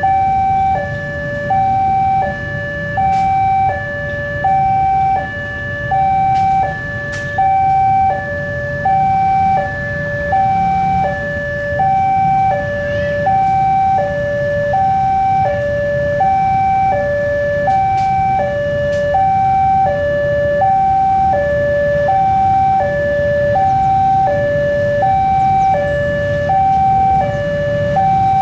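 Railway level-crossing warning alarm sounding an electronic two-tone chime, a high and a low note alternating about once a second, steady throughout, over a low rumble.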